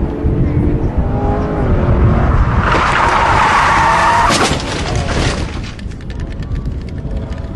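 Race car engine running, then tyres skidding and squealing loudly for about two and a half seconds, followed by a rapid run of clicks.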